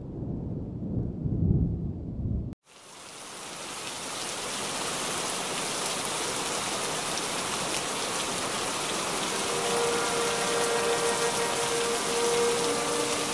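Rumbling thunder that cuts off abruptly about two and a half seconds in, then a steady hiss of heavy rain fading in and holding. From about ten seconds in, faint held tones sound beneath the rain.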